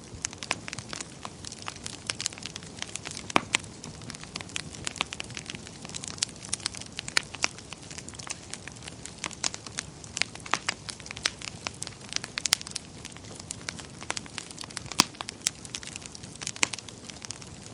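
Wood fire burning in a fireplace: irregular crackles and sharp pops over a steady low rumble of flames, with a few louder pops.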